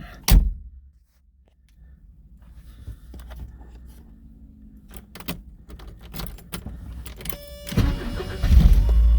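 A loud thump near the start, then keys clicking and jangling at the ignition of a 1983 Porsche 944. A steady electronic warning tone comes on near the end as the ignition is switched on, and the 2.5-litre four-cylinder engine cranks and catches on a cold start, running on steadily.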